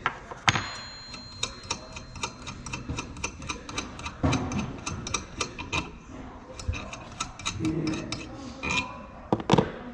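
Metal hand tools clicking and tapping on a cylinder head, a few sharp clicks a second, with a short ringing metallic ping about half a second in and two louder knocks near the end.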